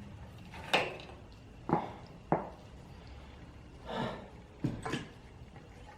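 A few separate knocks and clunks of hard parts being handled and set down, as the just-removed front fork leg is dealt with.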